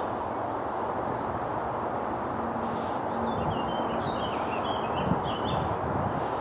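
A songbird sings a short phrase of quick warbled notes, heard over a steady rushing background noise.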